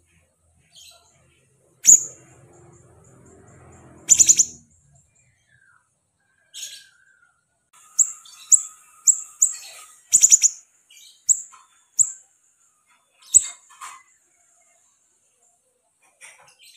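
A siri-siri songbird calling in short, sharp, very high chirps, some single and some in a quick run of four or five in the middle. A faint low rumble sits under the calls for a couple of seconds near the start.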